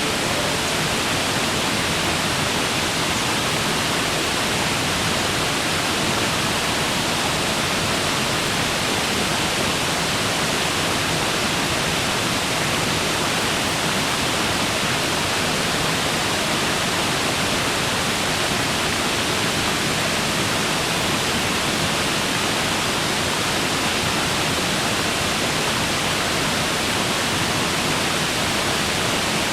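Waterfall running steadily: an even, unbroken rush of falling water with no changes.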